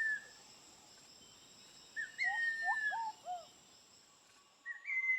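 A rainforest bird singing a repeated phrase about every two and a half seconds: a long, slightly falling whistle, then a few short, lower rising-and-falling notes. A steady high insect drone runs underneath.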